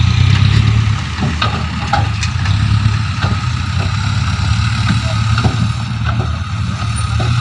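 Heavy diesel engine of a dump truck running steadily with a low hum, with scattered light clicks and knocks over it.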